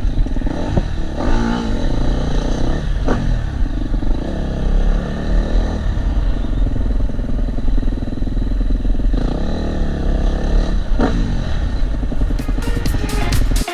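KTM 250 SX-F single-cylinder four-stroke motocross engine heard from a helmet camera, revving up and falling back again and again as the throttle opens and closes, with heavy wind rumble on the microphone.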